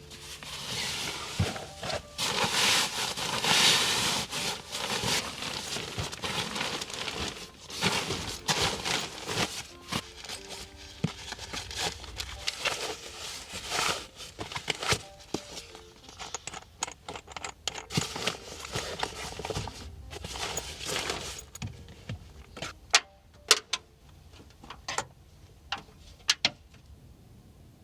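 Rustling and clattering of things being handled, with several sharp clicks and knocks near the end.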